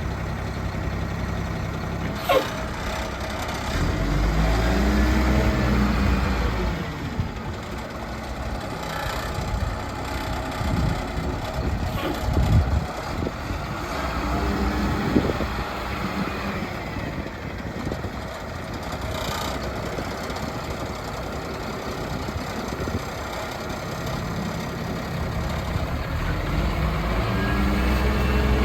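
2009 Kalmar spotter truck's diesel engine running at idle, its revs rising and falling about four seconds in and again near the end. A few sharp clicks or knocks are heard along the way.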